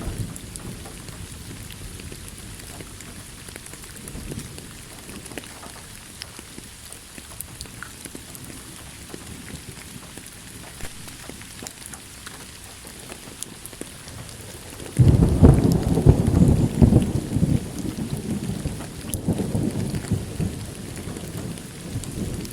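Steady rain falling with scattered drop ticks; about two-thirds of the way through a thunderclap breaks in suddenly and rolls on as rumbling thunder, fading and swelling to the end.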